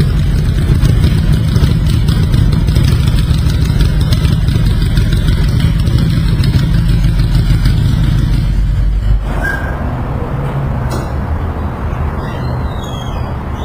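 V-twin motorcycle engine running, loud and steady, then dropping to a quieter level about nine seconds in.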